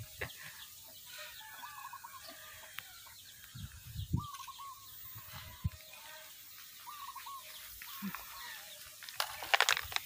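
Birds calling: short rising-and-falling calls repeated every couple of seconds, with a brief louder rustling burst near the end.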